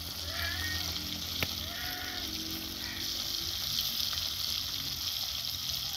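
Sliced onions, tomatoes and ginger sizzling in oil in an aluminium pot, a steady hiss, with a single sharp click about one and a half seconds in.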